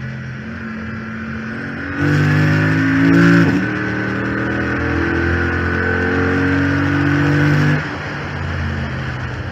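Chrysler 300 SRT8's 6.4-litre HEMI V8 on track: about two seconds in it goes to full throttle and revs up, a quick upshift drops the revs, and it pulls hard until the throttle lifts near the end. A steady whine runs over the engine, which the owner puts down to a failed power steering pump.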